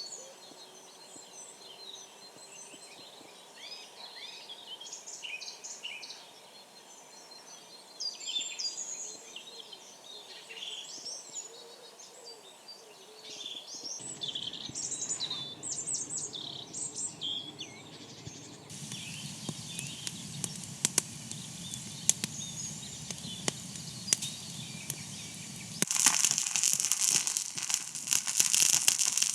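Small songbirds chirping and calling in quick, varied phrases over a soft outdoor background for the first half. This gives way to scattered sharp clicks and then a louder, dense crackling near the end.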